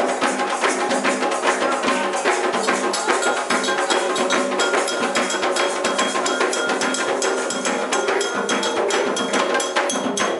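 Candomblé percussion music: drums and a clacking wood-block or bell part play a dense, fast, even rhythm under steady held tones.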